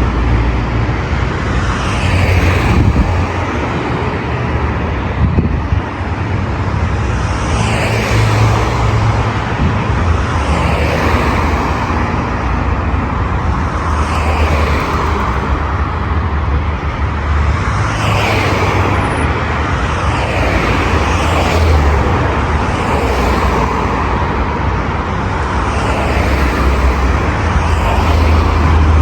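Busy city road traffic: a continuous wash of car engines and tyre noise with a low rumble, swelling as vehicles pass one after another every few seconds.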